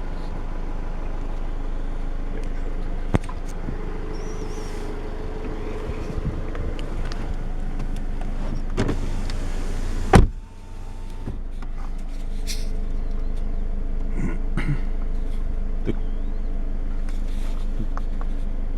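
2015 Dodge Dart's 2.4-litre MultiAir four-cylinder engine running steadily and loudly, with a few small clicks. A loud single thump comes about ten seconds in, after which the engine sounds more muffled.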